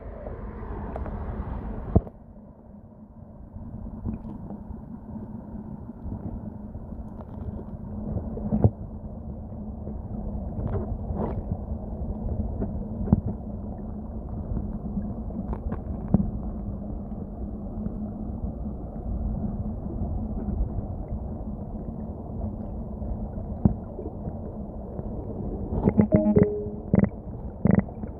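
Stream water heard with the microphone underwater: a steady, muffled low rumble of flowing water with scattered clicks and knocks. The sound turns duller about two seconds in, and a cluster of sharper clicks comes near the end.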